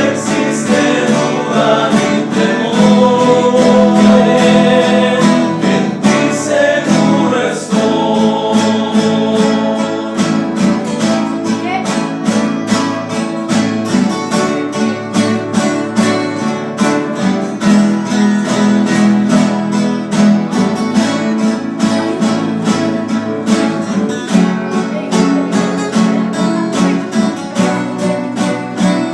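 Men's rondalla playing a hymn: acoustic guitars strumming a steady rhythm with male voices singing. The singing drops away after the first several seconds, leaving the strummed guitars.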